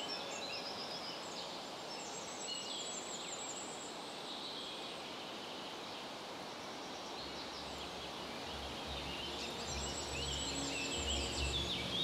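Several small birds singing, high rapid chirps and trills over a soft woodland hiss.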